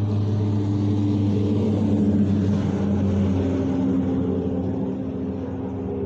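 A loud, steady mechanical drone with a low hum and several held tones. One tone shifts in pitch about three seconds in, and the whole sound eases off slightly near the end.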